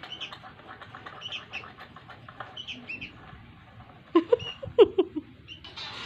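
Birds chirping: a run of short, faint chirps, then a few short, louder squeaky calls about four to five seconds in.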